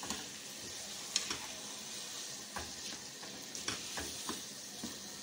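Grated carrots, khoya and sugar frying in ghee in a pan, a steady sizzle, while a slotted spatula stirs and scrapes through the mixture with scattered scraping clicks.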